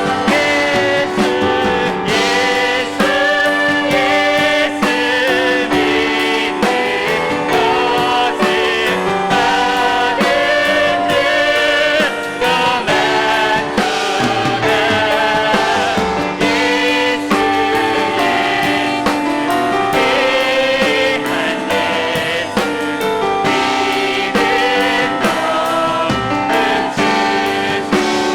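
Live contemporary worship music: a praise team's voices singing a gospel song, accompanied by piano and drums.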